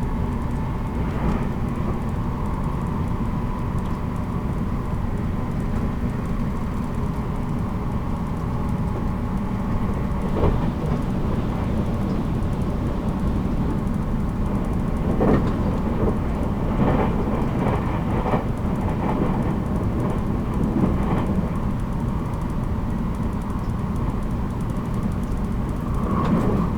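783 series electric train running, heard from inside a motor car: a steady low rumble of wheels and running gear. A scattering of sharp knocks comes through it several times, about a second and a half in, around ten seconds in, and repeatedly in the second half.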